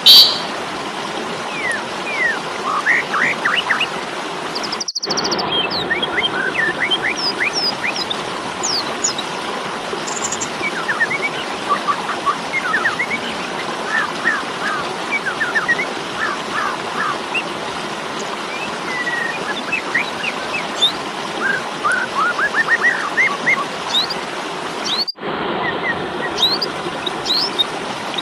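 Birds chirping: a loud call right at the start, then many short, quick chirps over a steady hiss, with the sound cutting out briefly twice, about 5 and 25 seconds in.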